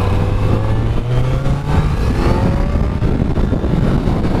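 Kawasaki Z900's inline-four engine running under way on its stock exhaust, not very loud, its note rising steadily over the first couple of seconds as it pulls up through the revs.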